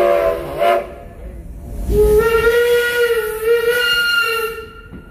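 Steam locomotive's whistle blowing twice: a blast ending under a second in, then after a short pause a long steady blast of about three seconds.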